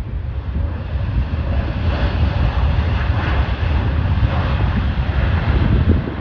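Jet airliner engines: a deep, steady rumble with a rushing hiss on top that grows louder over the first couple of seconds and then holds.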